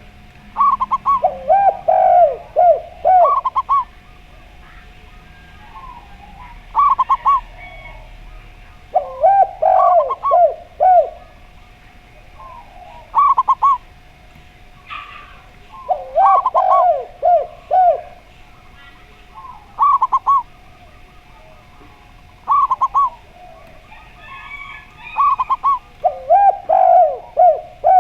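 Two doves cooing in turn, a zebra dove (perkutut) and a derkuku dove: repeated short phrases of clipped coo notes, one voice higher and one lower, each phrase a second or two long and coming back every few seconds.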